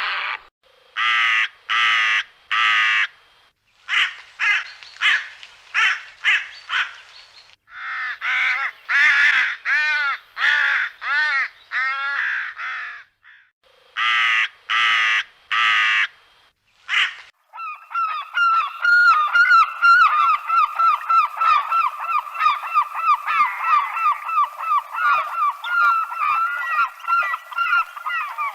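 Honking bird calls: loud single calls with short gaps between them at first, then, about two-thirds of the way in, a dense unbroken chorus of many overlapping calls, as from a flock.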